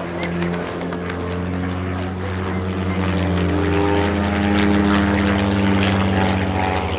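Propeller aeroplane engine running in flight, a steady drone that rises in pitch and grows louder about four seconds in, then eases off near the end as the plane passes.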